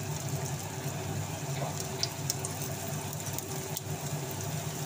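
Beef shami kababs shallow-frying in a little oil, a soft sizzle with a few small pops, over a steady low hum.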